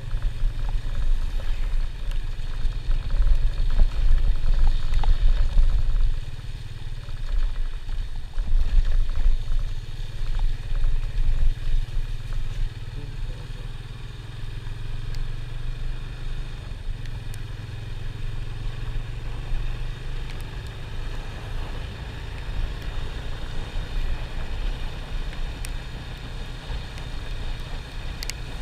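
Low, steady rumble of a moving vehicle on the road, with the microphone buffeted by wind so that the loudness rises and falls.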